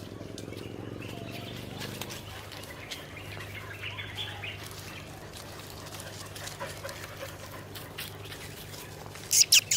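Outdoor ambience on a walk with many dogs: a steady low hum with scattered light clicks and rustles. Two sharp, high-pitched chirps falling in pitch come in quick succession near the end, much louder than the rest.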